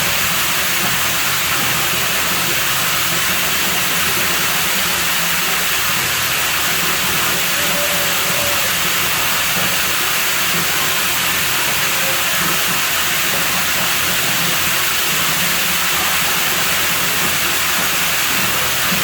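Water running steadily, an even rushing hiss with no change in level.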